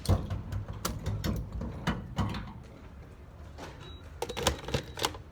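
A series of irregular clunks and clicks from handling a gas pump: the fuel nozzle is pulled out and hung up, and the fuel cap is put back once fuelling has finished. The loudest clunk comes right at the start, and two clusters of clicks and knocks follow, one about a second in and another near the end.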